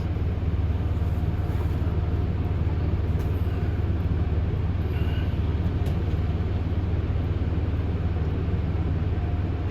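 Steady low rumble heard from inside a pickup truck's cab as it enters a tunnel car wash.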